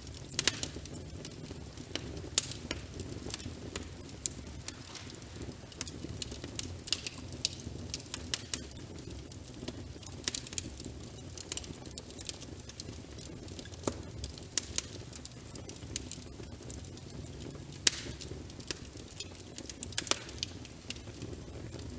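Wood fire crackling in a fireplace: irregular sharp snaps and pops, a few much louder than the rest, over a steady low rush of rain.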